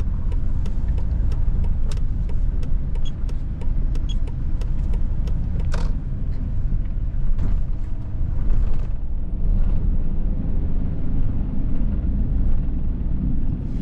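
Steady engine and road rumble inside a moving vehicle's cab, with a regular ticking about twice a second for the first six seconds or so.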